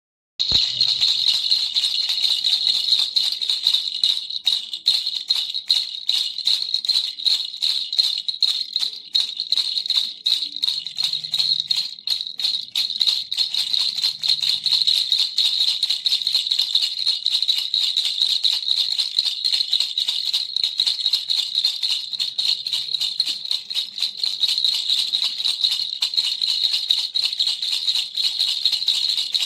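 Baby's toy rattle shaken continuously: a fast, steady stream of clicks with a bright ringing jingle.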